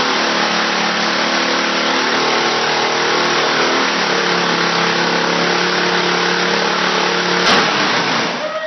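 Mini bike engine held at steady high revs during a burnout, its rear tyre spinning against the ground with a heavy hissing scrub. About seven and a half seconds in there is a sharp knock, the engine note breaks off, and the sound fades out.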